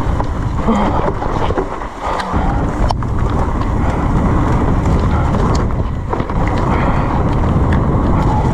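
Mountain bike descending a wet, slippery trail: wind buffeting the microphone over tyre noise and the rattle and knocks of the bike on rough ground, with one sharp knock about three seconds in.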